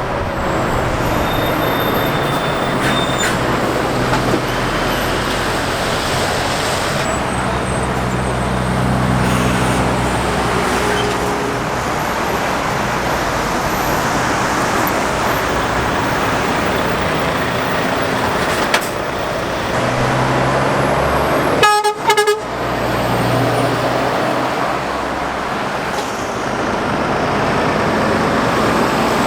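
Steady traffic of trucks and cars passing at speed, engine and tyre noise swelling as each one goes by. A truck's horn toots briefly about three quarters of the way through.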